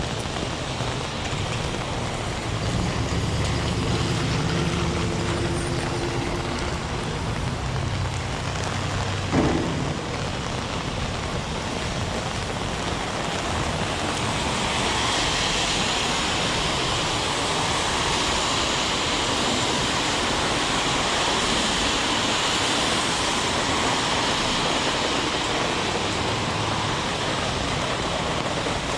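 Heavy rain falling steadily on a city street, with a motor vehicle's engine rumbling past in the first several seconds and a single sharp knock about nine seconds in. From about halfway the hiss grows brighter and a little louder.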